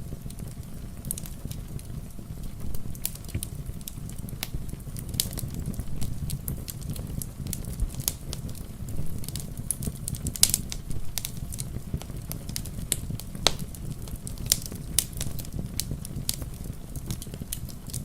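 Wood fire crackling, with irregular sharp pops and snaps over a steady low rumble; one louder pop comes about ten seconds in.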